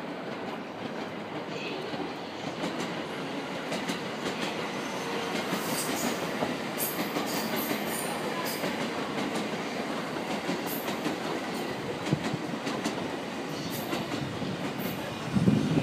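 JR 651 series electric train rolling slowly across station tracks and points. The rumble of wheels on rail grows a little louder over the first few seconds, with a clickety-clack and short high squeals from the wheels. A louder burst comes at the very end.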